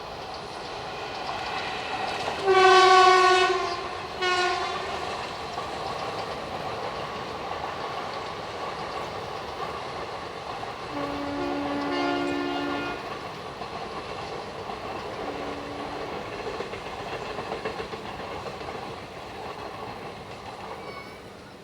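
Train running on the rails with a steady rumble and clatter, sounding its horn: a long, loud blast about three seconds in and a short one right after, then a lower, quieter horn around twelve seconds in and a brief toot a few seconds later. The running noise fades slightly near the end.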